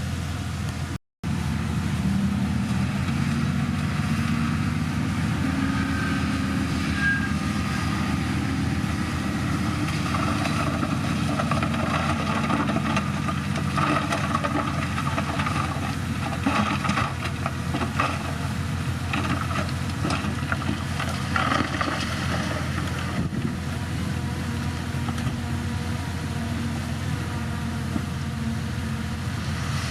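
Heavy diesel engine of a bulldozer running steadily, with scattered short knocks. The sound cuts out completely for a moment about a second in.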